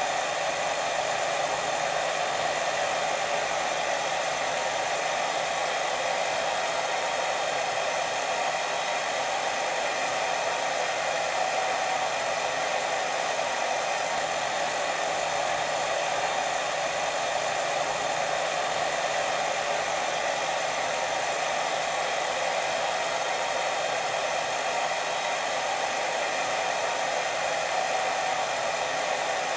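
Steady white noise for sleep, an even hiss with its weight in the middle range and no pulses or breaks.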